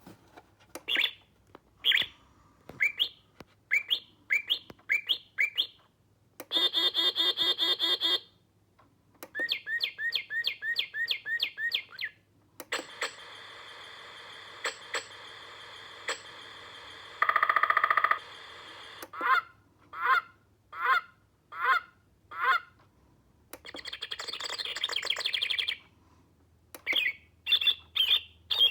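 National Audubon Society bird clock playing recorded bird songs and calls, several different ones in turn with short pauses between them: runs of chirps and whistled notes, a buzzy call and a long trill.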